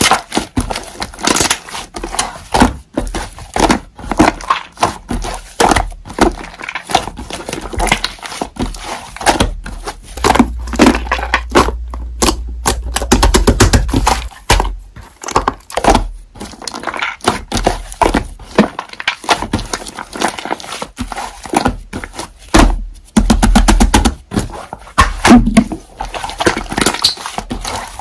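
Slime being played with by hand: squished, pressed and stretched, giving an irregular run of sticky pops, clicks and squelches.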